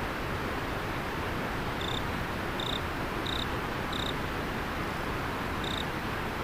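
River water flowing steadily, with a cricket giving five short, clear chirps between about two and six seconds in.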